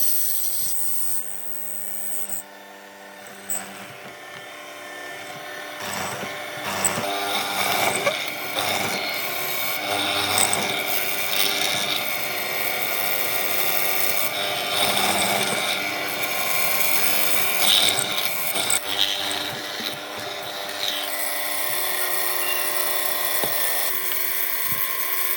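Electric power tool running while it works wood, a steady motor whine whose loudness shifts as the load changes, getting louder about six seconds in.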